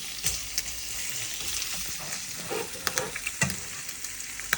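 Eggs and bacon frying in oil in a pan: a steady sizzle with scattered crackling pops.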